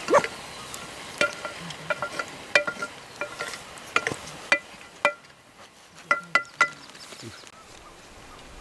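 Sharp metallic clinks, irregularly spaced: the same ringing metal object struck about a dozen times, like kitchenware being stirred or knocked, with a quieter gap around five seconds in.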